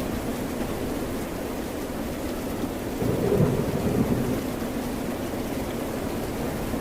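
Steady rain and ocean surf noise, with a low rumble that swells about three seconds in and dies away over a second or two.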